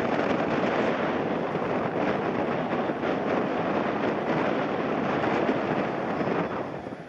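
Strong gusting wind buffeting the microphone, mixed with the jet engine noise of an airliner landing in a heavy crosswind. The noise is loud and crackling and eases off near the end.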